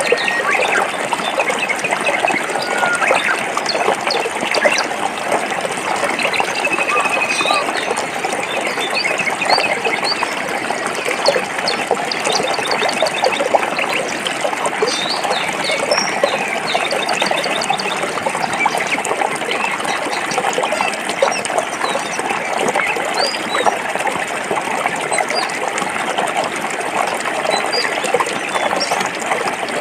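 Forest stream flowing and splashing over rocks in a steady, unbroken rush. Short high bird chirps are scattered over it, with one brief held note about a quarter of the way in.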